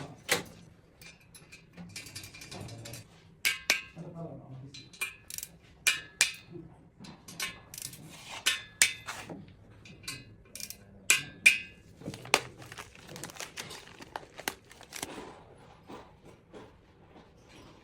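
Metal tools and parts clinking and clattering in irregular sharp knocks, many with a short metallic ring, as they are handled during engine work.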